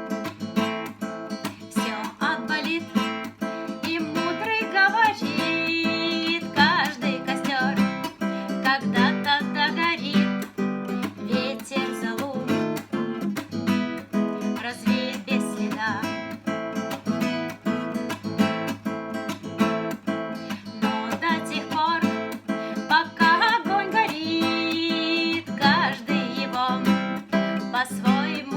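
Acoustic guitar strummed as song accompaniment, with a voice singing a melody over parts of it.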